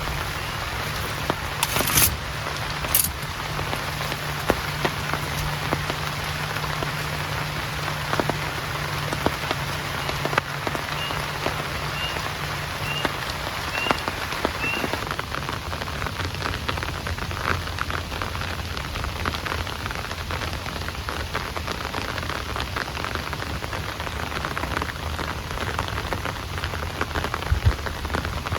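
Heavy rain falling steadily, with many separate drops ticking on a nearby surface and two sharper taps about two and three seconds in.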